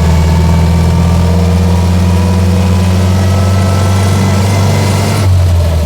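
1924 Austin Seven's small four-cylinder side-valve engine running steadily under throttle on the move. About five seconds in the note changes and drops back as the throttle is lifted, as for a gear change.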